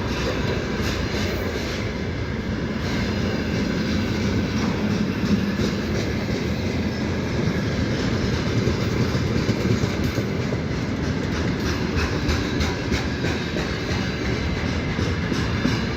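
Freight train wagons rolling past with a steady rumble, the wheels clacking over rail joints, the clacks coming more often in the second half.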